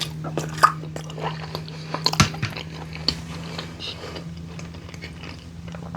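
Close-miked chewing of a bite of sweet potato with crab dip: irregular wet smacks and clicks of the mouth. A steady low hum runs underneath.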